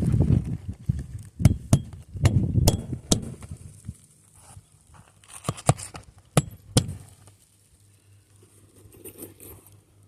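Footsteps and knocks on a shingle roof: dull thuds with sharp clicks over the first few seconds, then a few more clicks between about five and seven seconds in.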